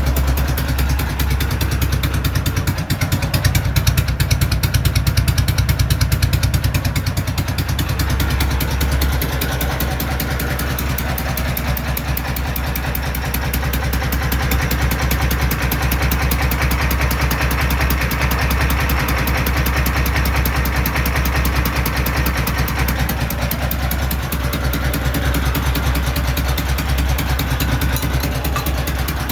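K-750 motorcycle's flathead boxer-twin engine running at a steady idle on a Chinese scooter CDI ignition, a little louder for a few seconds from about two seconds in.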